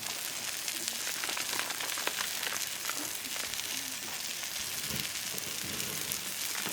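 Food frying in a pan over a campfire: a steady sizzle scattered with many small crackles.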